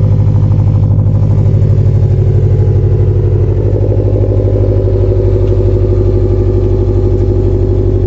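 Subaru WRX STI turbocharged flat-four idling shortly after a cold start through a Remark axle-back muffler-delete exhaust, with a steady, deep rumble that pulses evenly. The idle settles slightly about halfway through.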